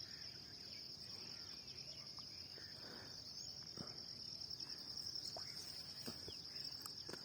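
Faint, steady high-pitched trill of insects such as crickets, with a few soft ticks.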